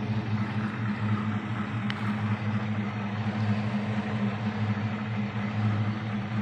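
A 1966 Mustang's 289 V8, converted to a four-barrel carburettor and fitted with ceramic-coated headers, idling steadily, quiet and smooth.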